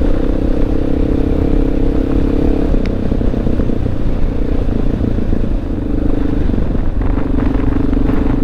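Honda XR650L's single-cylinder four-stroke engine running under way at a steady pull. Its note changes about three seconds in and dips briefly near the middle, over low wind and road rumble.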